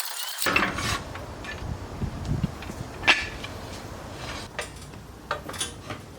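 Scattered metallic clinks and knocks of tools and parts being handled while working on a Jeep, with one sharp knock about three seconds in.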